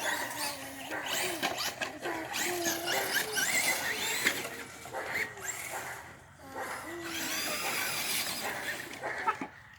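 Electric motor of an RC truck whining as it is run and throttled, its pitch rising and falling, over the noise of the truck moving.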